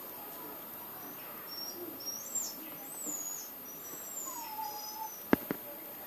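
Birds chirping in the background: a run of short, high, gliding calls and a lower whistle sliding downward. Near the end come two sharp clicks a fraction of a second apart.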